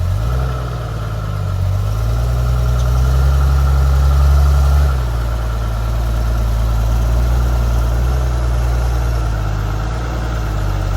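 Off-road 4x4 vehicle's engine running low and steady, pulled harder for a few seconds in the middle, then eased off about five seconds in.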